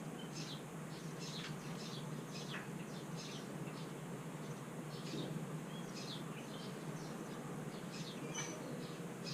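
Sparrow nestling in the nest calling for food: thin, high chirps, each a short downward slide, about two a second in loose clusters. A steady low hum lies underneath.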